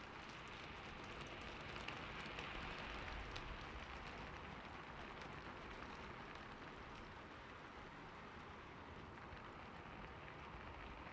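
Steady rain falling on a roof, an even hiss with scattered light drop ticks.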